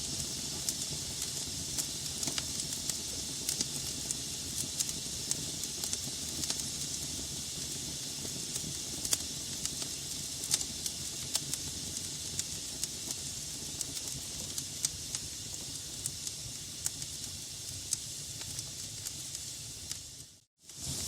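Wood fire burning in a fireplace: a steady hiss and low rumble with frequent sharp crackles and pops from the burning logs. The sound cuts out for a split second near the end, then resumes.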